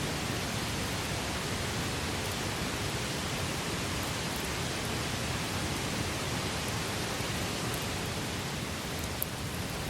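Campfire burning with a steady hiss and a few faint crackles, one sharper pop about nine seconds in.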